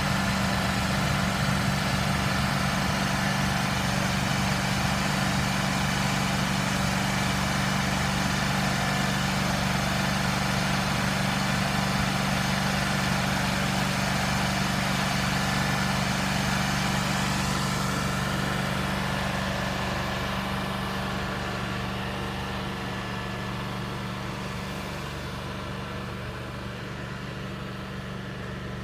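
Engine-driven asphalt crack-sealing machine running steadily with a low hum and a broad hiss on top. From about 18 seconds in it gets gradually quieter and duller.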